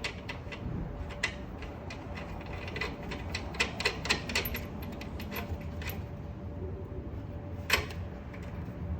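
Irregular metal clicks and clinks of a wrench and washers as the axle nut is run down on an e-bike's rear axle. The clicks bunch up in a quick run partway through, with one sharper click near the end, over a faint steady hum.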